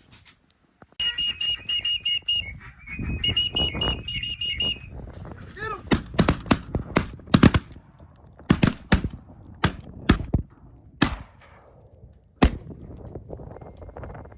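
Two runs of high, rapid pulsed whistling, then a volley of shotgun blasts from several hunters firing at ducks: about a dozen shots in quick, uneven succession over six seconds or so, the last one standing alone near the end.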